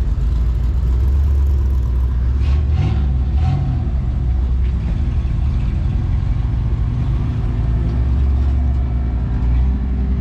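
A motor vehicle engine idling with a steady low rumble, with brief pitch glides about three seconds in.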